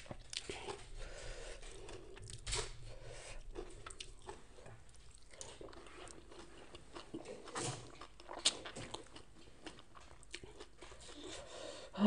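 A person chewing a mouthful of fried salmon close to the microphone, with irregular wet smacks and crunches.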